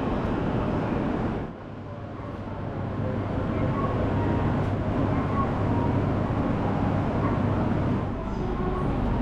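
Railway station ambience: a steady low rumble of trains and hall noise with indistinct voices. It drops off abruptly about one and a half seconds in, then builds back up.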